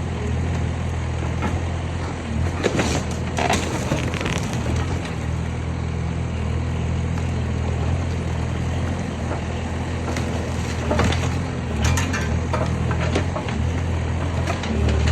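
Bobcat skid steer engine running steadily under load, with bursts of cracking and crunching about three seconds in and again around eleven to thirteen seconds in as the Beak attachment crushes a junk sofa's frame.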